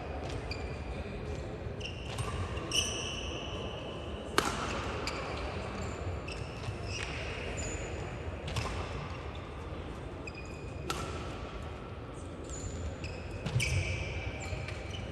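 Badminton rally: sharp cracks of rackets hitting the shuttlecock every few seconds, with short high-pitched squeaks of players' shoes on the court floor between the shots.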